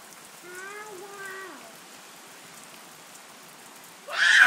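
Steady rain falling on wet paving stones. A short voice sounds about half a second in, and a loud voice breaks in near the end.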